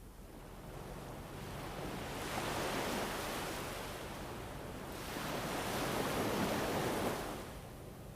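Wind blowing in two slow gusts, each swelling up and dying away, the second fading out near the end.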